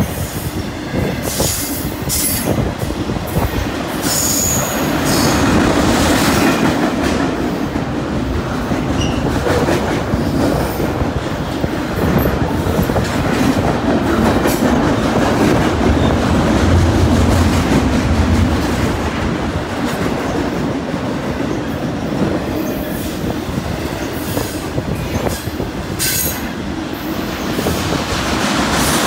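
Freight cars of a long freight train rolling past at close range: a steady rumble with wheels clicking over rail joints and a few brief high wheel squeals.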